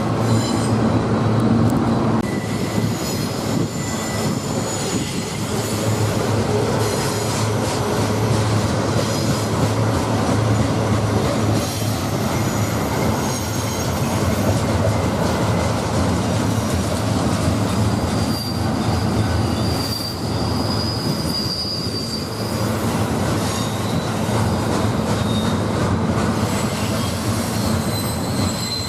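Freight train cars rolling past on steel rails in a steady loud rumble, with thin high-pitched wheel-flange squeals that come and go.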